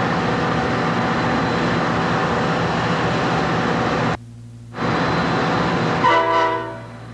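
Amtrak diesel locomotive running steadily, the sound cutting out for about half a second around four seconds in. About six seconds in, a short horn blast sounds.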